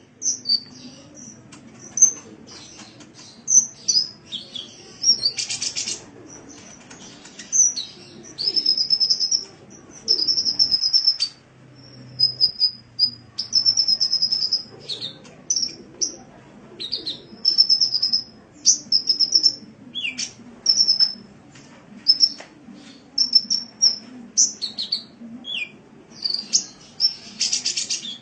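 Sunbird singing: a fast, continuous run of high-pitched chirps and short trilled phrases, broken by a couple of harsh buzzy bursts.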